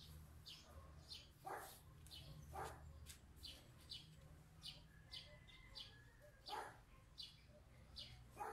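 Faint birds chirping repeatedly, about twice a second, over a low steady hum.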